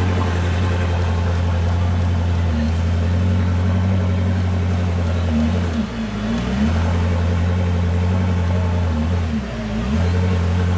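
Koenigsegg Jesko Sadair's Spear's twin-turbo V8 idling with a steady low drone. Its pitch sags and comes back up briefly twice, about six and nine and a half seconds in.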